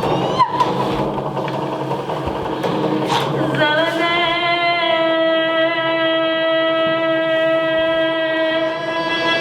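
Experimental sound-art performance: a dense droning texture with a click and a brief crackle, then a single long held note with a rich, buzzy tone slides up into place about a third of the way in and holds steady until near the end.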